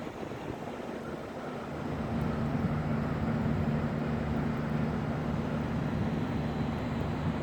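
Wind rumbling on the microphone; about two seconds in, a steady low hum from a passing or approaching train comes in and grows louder.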